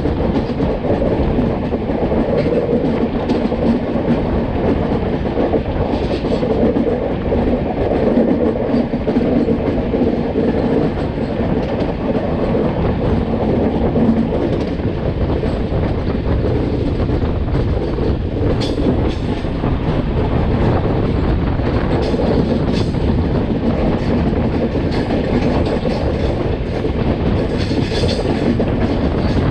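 Durg Humsafar Express passenger train running along the track, heard from on board. A steady loud rumble of wheels on rails, with a few sharper clicks of wheels over rail joints in the second half.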